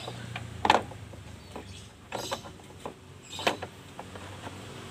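A few sharp clicks and knocks, irregularly spaced, over a faint low steady hum.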